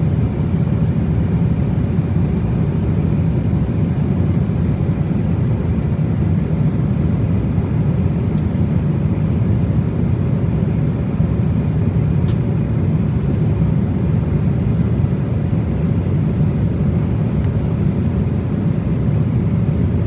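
Steady cabin noise of an Airbus A350-1000 at cruise: an even, low rushing roar of airflow and engines with a faint steady hum.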